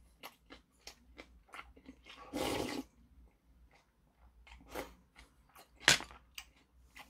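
Close-up eating sounds: chewing and small mouth clicks, a short noisy sip from a bowl about two and a half seconds in, and a sharp clink of dishware near six seconds.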